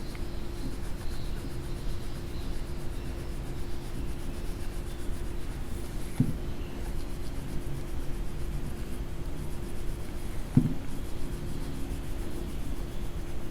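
A coloring tool rubbing back and forth on paper, over a faint steady hum. There are two short knocks, about six seconds and ten and a half seconds in.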